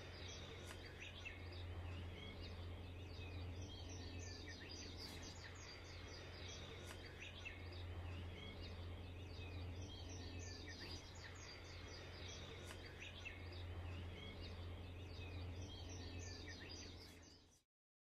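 Faint birds chirping, many short calls repeating over a steady low hum; the sound cuts off near the end.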